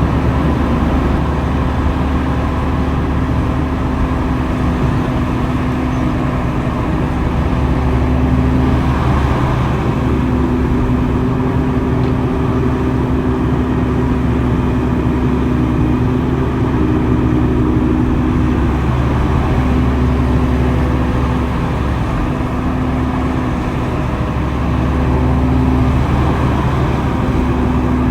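Heavy earthmoving machinery's engine running steadily under work, a loud low hum with a held tone that briefly drops out several times.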